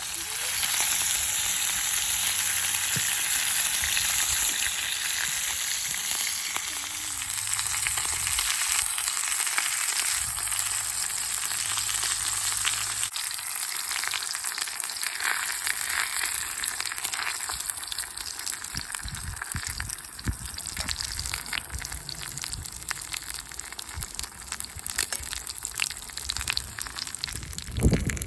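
Food sizzling in a hot skillet over a wood fire. The hiss is strongest for the first few seconds, then settles to a lower, steady sizzle with scattered small pops.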